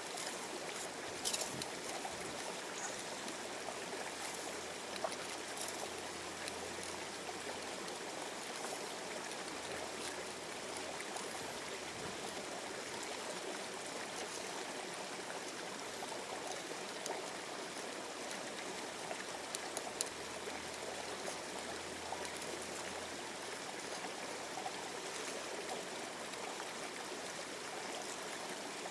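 River water running steadily, with a few short sharp clicks.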